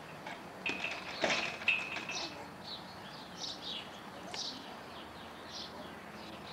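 Small birds chirping over and over in short, high, mostly falling chirps, with a light knock or two about a second in.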